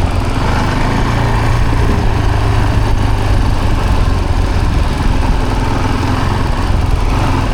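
Vehicle engine running steadily as it drives along a trail, a constant low hum with road and tyre noise over it.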